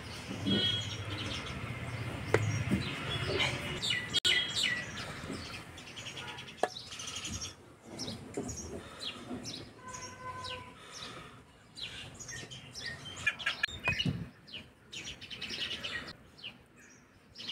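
Small birds chirping and singing, many short overlapping calls. A few sharp clicks stand out, the loudest about two seconds in.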